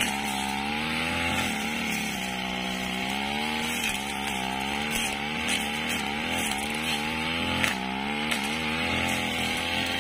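Brush cutter engine running at high speed while cutting grass, its pitch repeatedly sagging and then rising again as the load comes and goes.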